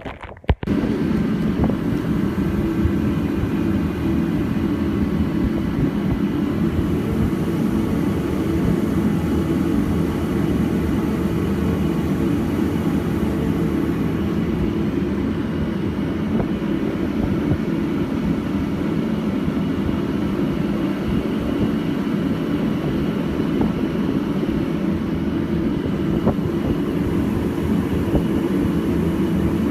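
A vehicle driving: a steady, constant rumble of engine and road noise that cuts in abruptly about half a second in.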